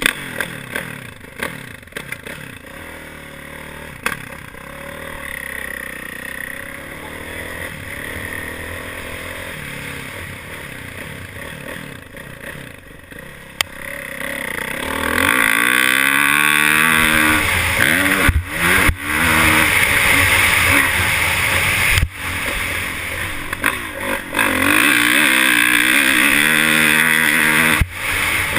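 Motorcycle engine running steadily and fairly quietly at first. About halfway through it revs up, climbing and falling in pitch as it accelerates, and stays loud from then on.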